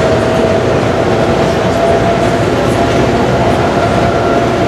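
Airport people-mover train running, a steady rolling rumble with a constant electric whine.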